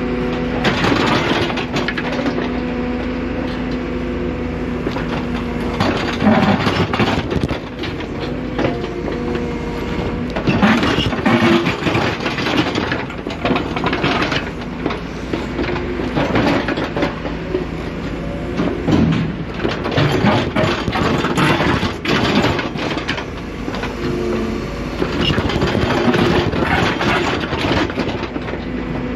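Excavator engine running steadily while the machine works, with repeated irregular clanks, scrapes and crunches over the engine hum.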